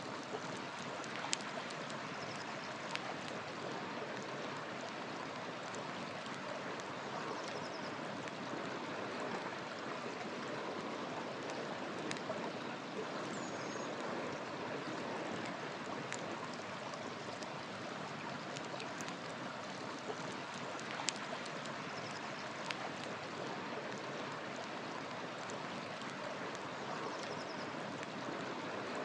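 River water flowing in a steady rush, with a few sharp pops from a crackling wood fire and faint, brief bird chirps here and there.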